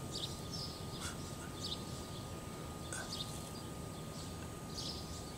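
Faint outdoor background noise with a few short, high bird chirps scattered through it, one about every second or two.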